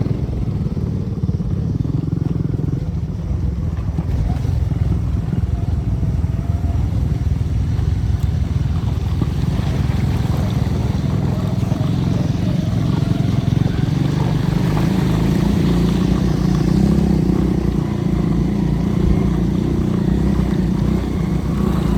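Motorcycle engine running steadily throughout, its rumble growing a little fuller about halfway through.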